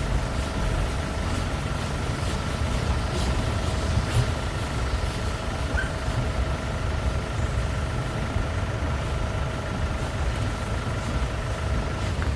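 A vehicle running with a steady low rumble and a steady whine, the whine cutting off just before the end.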